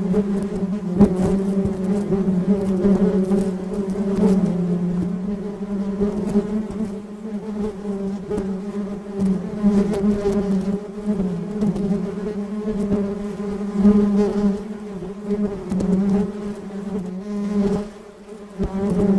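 A bee buzzing in flight: a steady, low buzz whose pitch wavers slightly as it moves, briefly fading near the end.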